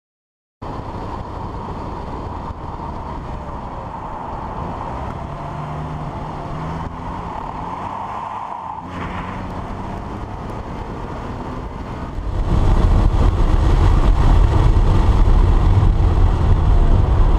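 Porsche 911 Carrera's flat-six engine running at speed with wind and road noise, heard from outside the car's flank. About twelve seconds in, the sound gets louder and shifts to a heavy low rumble as heard inside the cabin.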